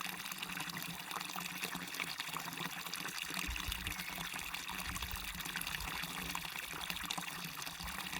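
Small waterfall and stream water rushing and splashing steadily. A low rumble joins in for a few seconds from about three and a half seconds in.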